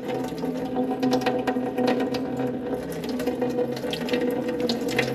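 Brass drain petcock on the back of a water pump being worked open, with small metal clicks and taps and water from the cooling system starting to run out. A steady low hum runs underneath throughout.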